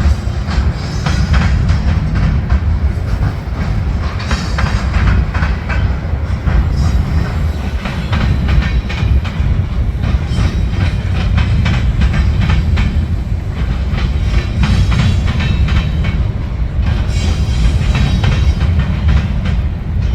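Cars of a passing train rolling by on the rails: a steady deep rumble with quick clickety-clack from the wheels.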